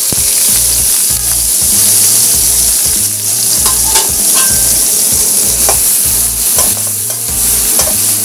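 Sliced shallot, garlic and lemongrass sizzling in hot cooking oil, frying steadily, with a spatula stirring and knocking against the pan now and then.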